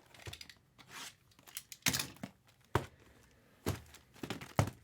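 Trading-card packaging being opened by hand: wrapper tearing and crinkling in short bursts, with several sharp knocks of cardboard boxes and packs being handled and set down.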